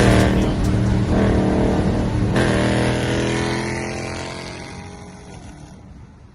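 Car engine running with a deep, even note and some revving, fading away over the last few seconds.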